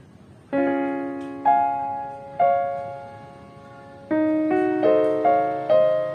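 Background music: a slow solo piano melody, notes struck one at a time and left to fade, with a quicker run of notes in the second half.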